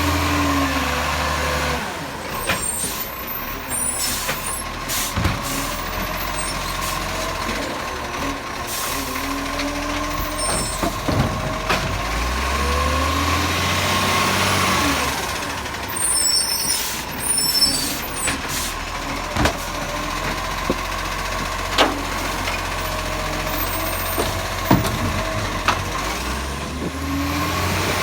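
Bucher-bodied recycling truck running, with the engine rising in pitch about twelve seconds in and a swell of hiss soon after, and scattered sharp knocks and clanks throughout.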